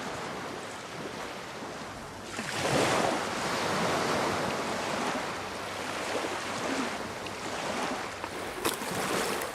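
Sea surf: a wave breaks about two and a half seconds in, then washes on and slowly fades.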